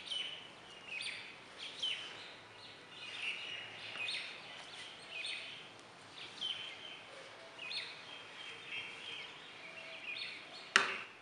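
A bird chirping over and over, short downward chirps about once a second. Near the end comes a single sharp click, the loudest sound.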